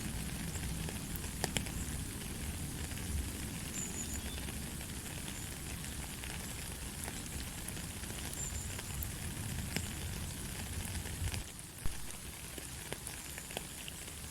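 Steady light rain: an even hiss with scattered drops ticking. About twelve seconds in it dips briefly, then one sharper drip.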